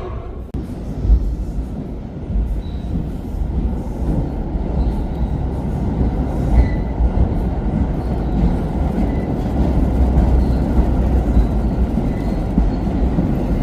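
Subway herbicide work train running along the track: a steady low rumble that builds slightly, with faint brief wheel squeals now and then.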